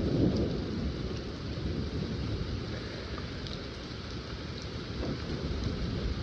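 Rain falling steadily, with a low rumble of thunder underneath.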